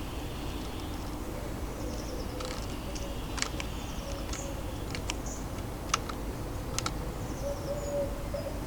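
Small garden birds at a feeder: sharp, irregular clicks and taps of beaks pecking at seed, with a few faint high chirps over a steady low urban background rumble.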